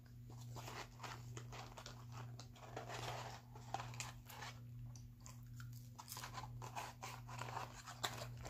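Close-up chewing and crunching of fast food, with irregular crackly clicks, over a steady low hum.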